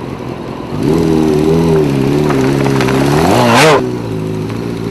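Motorcycle engine idling, picking up slightly about a second in, then blipped once in a quick rev shortly before the end and settling back to idle.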